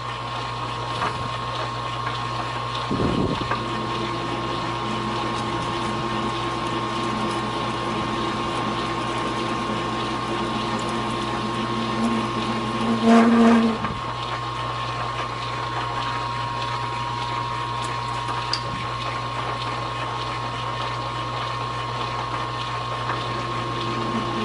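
Metal lathe running slowly with a steady hum while a radius cutting bit works the edge of a part. About thirteen seconds in, a brief louder ringing tone rises over it, the kind of chatter these radius bits are prone to.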